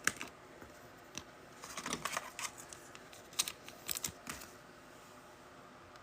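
Trading cards being handled and sorted: light clicks, slides and rustles of card stock and plastic sleeves, in a few short clusters during the first two thirds, then quiet handling.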